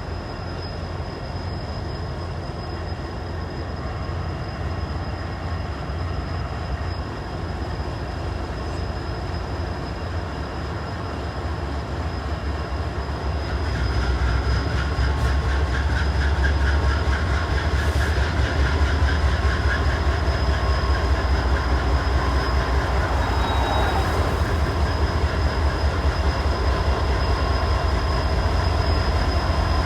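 Freight train rolling past, the steady rumble and clatter of its cars' wheels on the rails, growing louder about halfway through.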